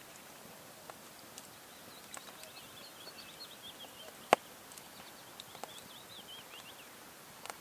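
A small bird twittering in a quick run of short, high warbling notes for a few seconds, over a faint outdoor hiss with scattered light clicks and one sharp click about four seconds in.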